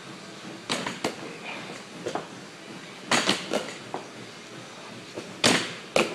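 Irregular sharp slaps and knocks from a hand-quickness drill, some single and some in quick clusters, with the loudest pair near the end.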